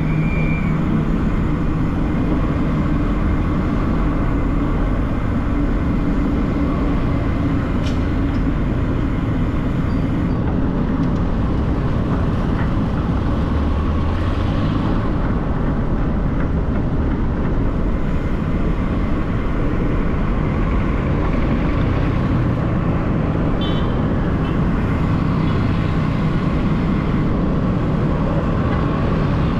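City street traffic: vehicle engines running and passing in a steady, continuous wash of road noise, with an engine hum most prominent near the start.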